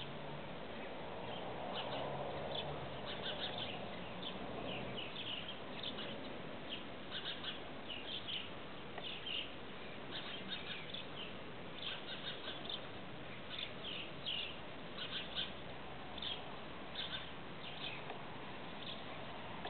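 Small birds chirping in short, irregular bursts over a steady background hiss.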